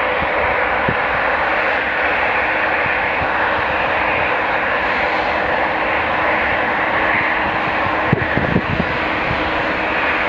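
Jet airliner engines running with a steady, loud rush and a faint steady tone. A few short low bumps about eight seconds in.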